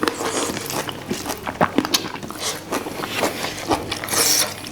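Close-miked eating sounds: wet chewing and lip-smacking on fatty fish, a run of short irregular clicks, with a brief hiss about four seconds in.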